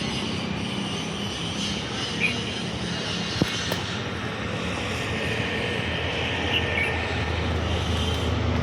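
A train running on the line with a steady rumble that grows louder toward the end, with one sharp click about three and a half seconds in.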